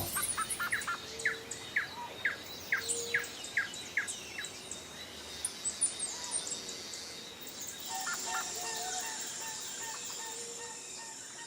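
Songbirds chirping: a run of short, quick chirps about two a second, then a different repeated call later on, over a steady outdoor hiss.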